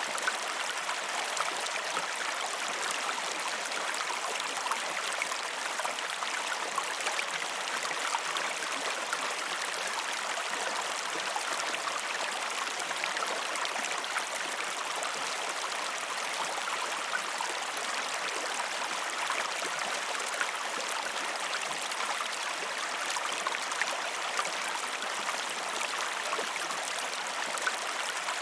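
River water flowing: a steady rush with many small splashes and trickles throughout.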